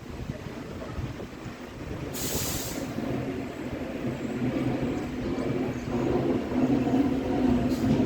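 R142-series subway train approaching, its motor hum with steady pitched tones building louder over the last few seconds. A short hiss of air comes about two seconds in.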